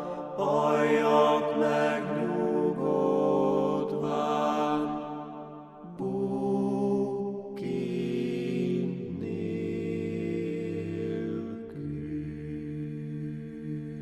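Closing of a slow Hungarian hymn in a chant-like style: wavering sung notes, then long held notes that shift in pitch a few times over a deep low drone, fading out at the end.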